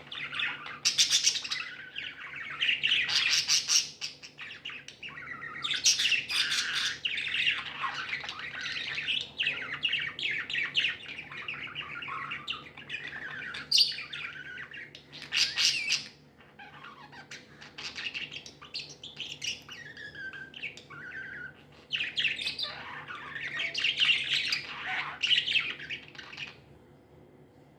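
Pet budgerigars chirping and chattering in a busy, continuous stream of warbles and squawks, which stops about a second before the end.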